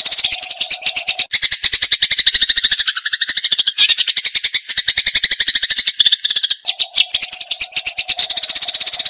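Eurasian tree sparrow in fighting mode, chattering a fast unbroken run of sharp chirps at many notes a second, high-pitched throughout.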